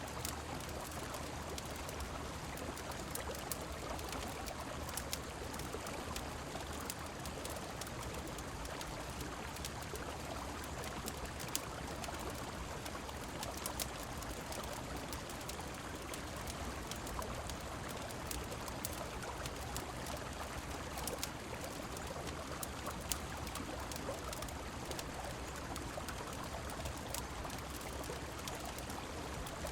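Steady flowing river water mixed with falling rain, with sharp little crackles of a wood fire scattered throughout.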